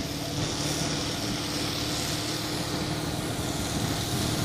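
A vehicle engine running steadily with a continuous hum and a hiss over it.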